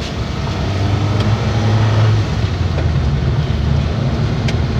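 Truck engine running steadily on the move, a low drone with road noise and a couple of faint clicks.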